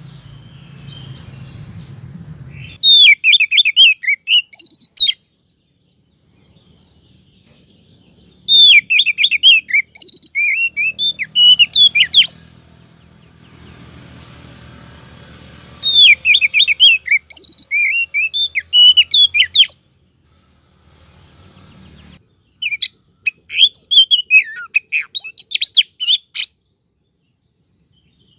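Female oriental magpie-robin (kacer) calling, played as a lure to draw in males: four bursts of rapid, sweeping high chirps, each lasting a few seconds, with short pauses between them.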